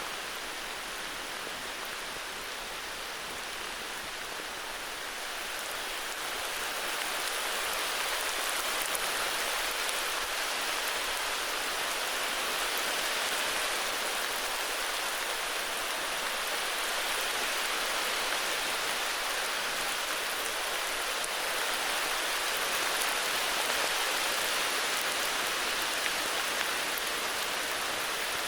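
Steady heavy rain falling, a continuous even hiss that grows a little louder about six seconds in.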